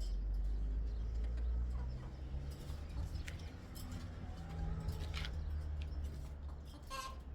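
Soft chicken calls over a steady low rumble, with a few light clicks and a short, sharper call about seven seconds in.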